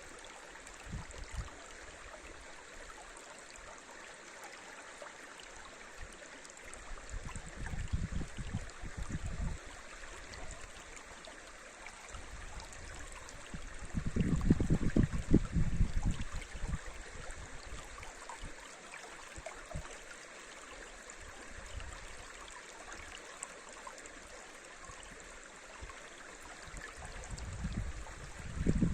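Forest river running over riffles, a steady rushing and gurgling of water. Low rumbles rise over it three times, loudest about halfway through.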